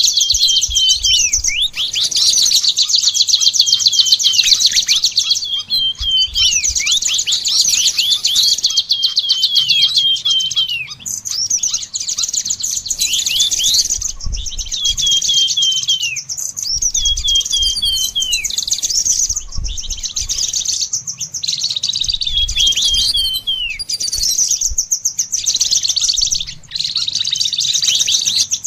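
Songbirds singing continuously: a rapid, high buzzy trill under clusters of quick downward-sliding whistled notes.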